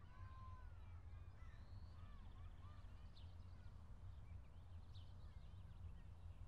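Faint bird calls, scattered short chirps and gliding whistles, over a low steady hum.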